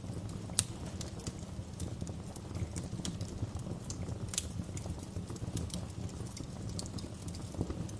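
Wood fire crackling, with a steady low rumble of burning and scattered sharp pops, the strongest about half a second in and again near the middle.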